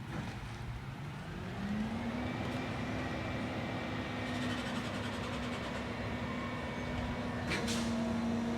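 Rear-loader garbage truck engine revving up about two seconds in and holding at a steady higher pitch, with a single sharp clank near the end.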